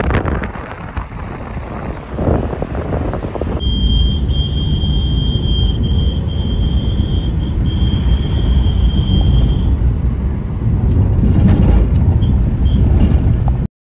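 A vehicle on the move: steady low road and wind rumble. A thin, steady high tone sounds over it from about 4 to 10 seconds in, and the whole sound cuts off suddenly near the end.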